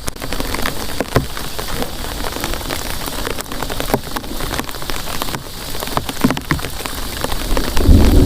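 Heavy rain falling, with many close drops striking a surface as sharp taps over a steady hiss. A brief low rumble swells near the end.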